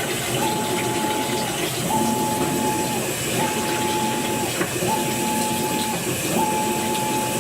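New Maytag washing machine agitating: a hum that comes and goes in regular strokes about every second and a half, over a steady hiss, with a sharp click about two-thirds of the way through. This is the clicking during agitation that the owner reports from the brand new washer.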